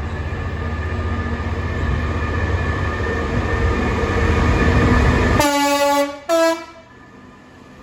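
A freight train approaches with a rumble that grows louder, along with a few steady whining tones. About five and a half seconds in, the locomotive gives two short horn blasts, a lower note and then a higher one, and the rumble drops away sharply as the horn sounds.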